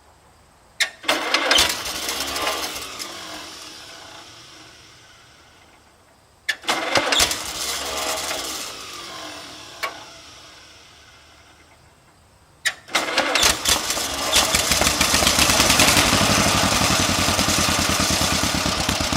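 Vintage John Deere Model LA tractor engine being started: twice it bursts into sound and fades away over several seconds, then on a third try about thirteen seconds in it starts and keeps running steadily. It starts up easily on a fresh 6-volt battery.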